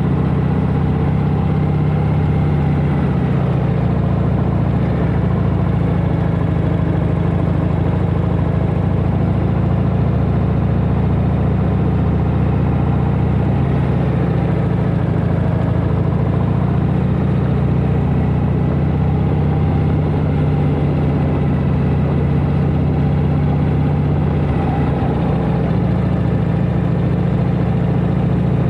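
1992 Harley-Davidson Heritage Softail Classic's 1340 cc Evolution V-twin running steadily while riding, its note shifting slightly a few times.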